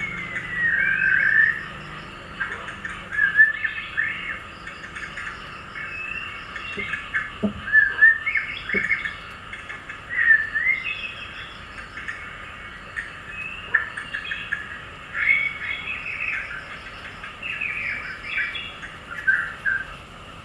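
Small birds chirping and twittering, short rising and falling whistled calls following one another without a break.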